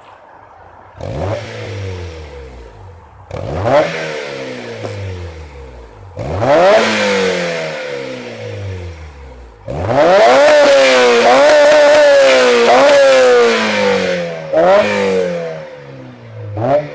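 Honda S2000 four-cylinder engine through an HKS Hi-Power dual exhaust with aftermarket headers, blipped from idle: four quick revs that climb sharply and fall back, and one longer pull held at high revs for about four seconds in the middle. At the highest revs the sound flattens out where the microphone is overloaded.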